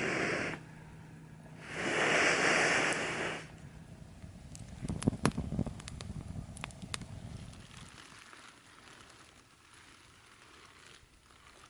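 Wood campfire crackling, with a cluster of sharp pops a few seconds in, then fading down to a faint hiss. Before the pops, two loud rushing hisses come and go, the first right at the start and the second lasting about two seconds.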